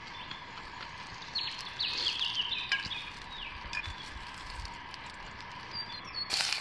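Birds chirping over a steady outdoor background hiss, with a quick run of short calls in the first half and fainter calls later. Scattered faint clicks run underneath, and a short loud burst of noise comes just before the end.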